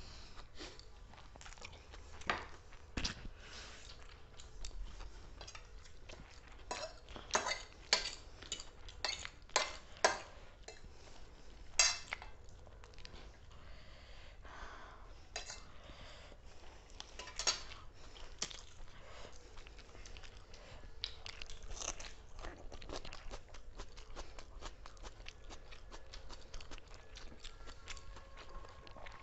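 People eating: sharp clinks of cutlery against plates, clustered in a quick run a third of the way in, with chewing between.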